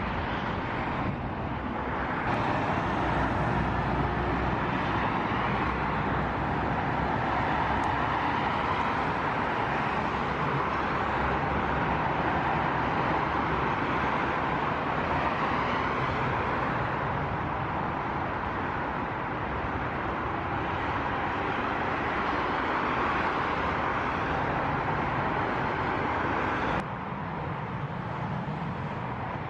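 Jet airliner engines running, a steady noise. It changes abruptly about two seconds in and again near the end.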